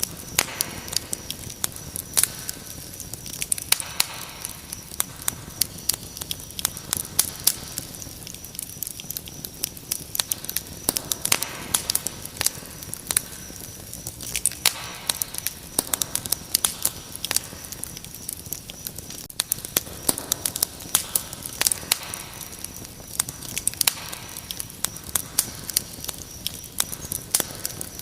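Wood fire crackling, with frequent irregular sharp pops, over a steady high-pitched cricket trill.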